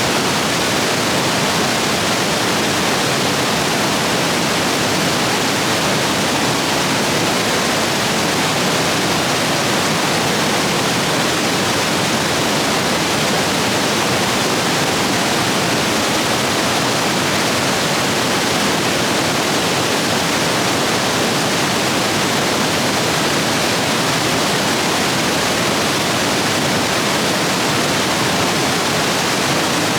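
Stream rapids swollen by heavy rain, rushing and splashing over rocks in a loud, steady roar of white water.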